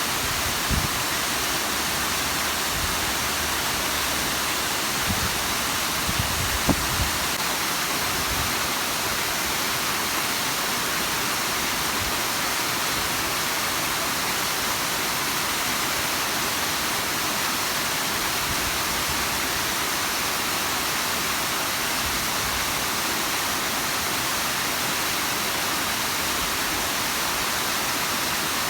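Bigăr waterfall: a steady, even rush of falling water. A few brief low thumps come in the first seven seconds.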